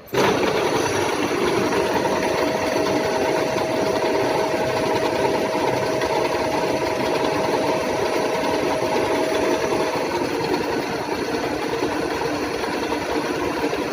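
WMW Heckert thread milling machine running: a steady mechanical clatter of motors and drives that starts abruptly. A thin steady whine rides over it from about two seconds in and stops about ten seconds in.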